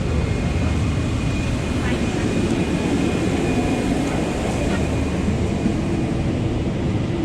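Steady rumbling hum of a parked airliner during boarding, with people's voices mixed in.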